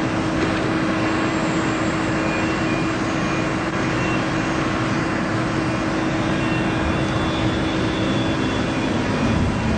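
Steady loud mechanical rushing noise with a constant hum, which fades out near the end.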